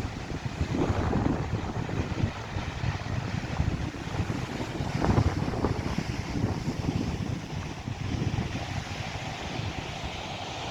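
Wind buffeting the microphone over the steady rush of sea waves, with a louder surge about five seconds in.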